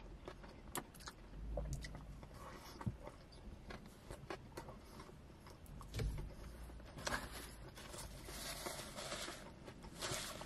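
Close chewing and soft mouth clicks of someone eating a wrap, with a couple of soft low thumps. A paper napkin rustles in the last few seconds.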